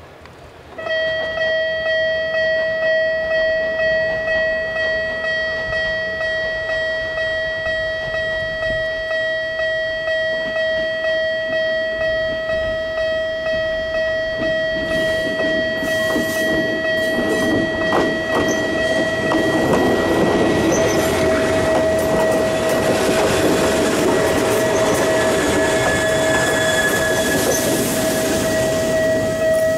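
A level-crossing warning signal starts about a second in and sounds steadily, pulsing about one and a half times a second. From about halfway a Toyama Chihō Railway 10030-series electric train (ex-Keihan 3000 series) approaches and runs close past, its wheels clattering over the rail joints, the rumble growing and loudest near the end.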